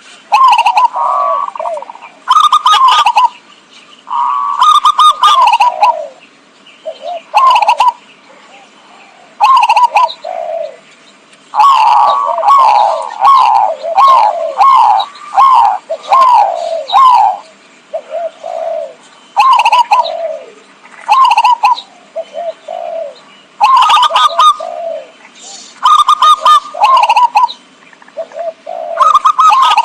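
Zebra dove (perkutut) cooing: bouts of quick, rippling staccato coo notes, repeated with short pauses between them. The longest run falls in the middle.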